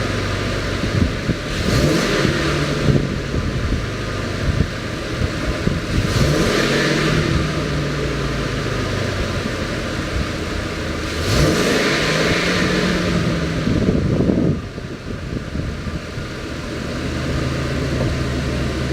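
Ford F-550 Super Duty truck engine idling and revved three times, each rev rising in pitch and falling back to idle. The last rev is the longest and drops off sharply, after which the engine settles back to a steady idle.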